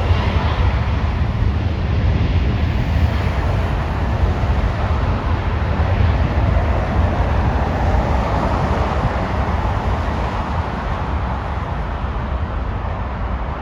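Jet aircraft engine rumble, steady and slowly fading toward the end, with wind buffeting the microphone.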